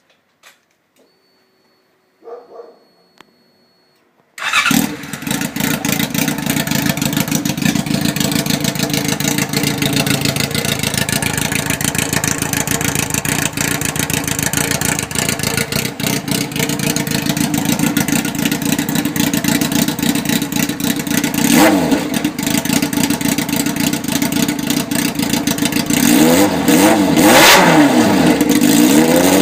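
2003 Yamaha YZF-R6's inline-four engine running with no exhaust fitted: it starts abruptly about four seconds in and runs at a steady raised idle. It is blipped once about two-thirds of the way through, then revved up and down several times near the end.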